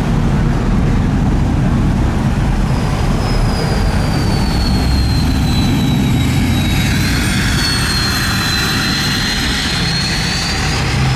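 A large engine running with a heavy low rumble and a thin, high whistling whine that sinks slowly and then climbs again near the end.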